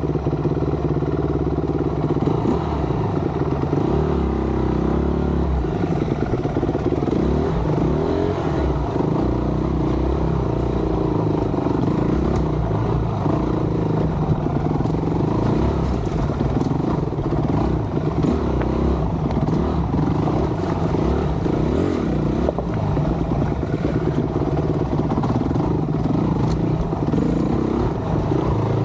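Dirt bike engine running on a rocky trail, the revs rising and falling with throttle, with clatter from the bike over the rocks.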